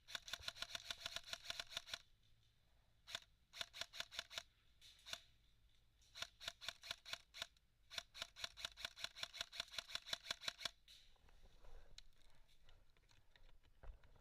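Airsoft gun firing full-auto in rapid bursts of sharp clicks: a two-second burst, a few short ones, then two longer bursts ending about eleven seconds in.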